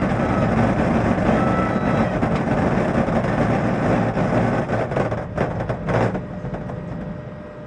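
Loud, steady rumbling roar with some rattling near the end, dying away after about six seconds.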